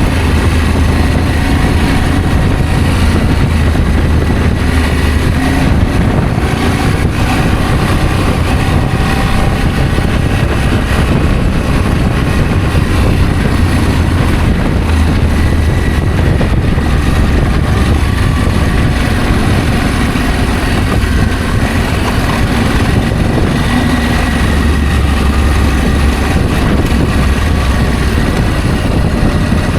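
Adventure motorcycle running steadily while riding, its engine sound mixed with a constant low rumble.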